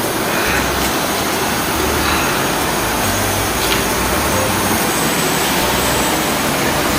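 Strong winter blizzard wind blowing steadily, buffeting the microphone with an uneven low rumble.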